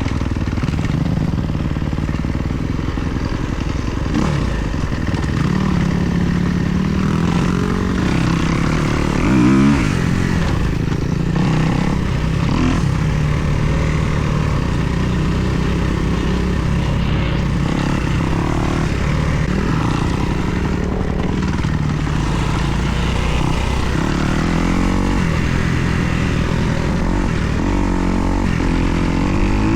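2024 Kawasaki KX250's single-cylinder four-stroke engine being ridden, its pitch rising and falling as the throttle is worked, with several quick revs.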